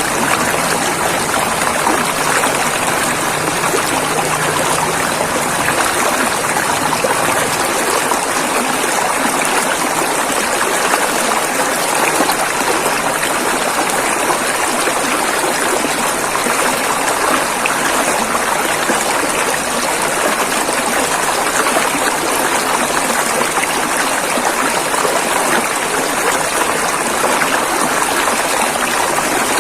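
River water rushing and flowing over rocks in a steady, even stream, a little fuller at the low end for the first several seconds.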